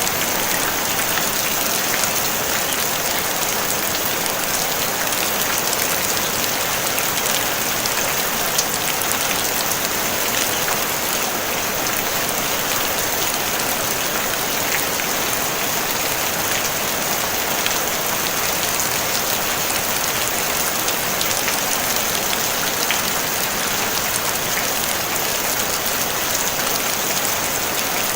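Steady, even rain falling on a tin roof: a dense hiss of drops with many small pattering ticks, no thunder.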